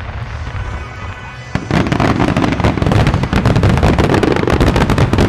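Fireworks finale barrage: the fading rumble and crackle of earlier shells, then about a second and a half in a dense, rapid run of loud bursts and cracks from many shells fired together.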